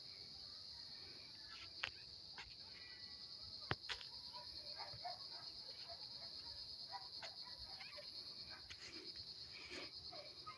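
Insects, likely crickets, trilling in a steady high-pitched chorus, with scattered faint chirps and two sharp clicks, about two and four seconds in.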